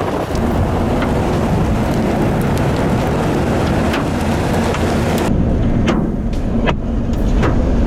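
Storm wind and rain over the low rumble of a moving vehicle, with scattered sharp taps; the high hiss falls away about five seconds in.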